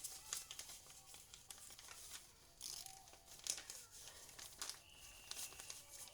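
A sheet of paper being folded and creased by hand: faint, irregular crinkling and crackling.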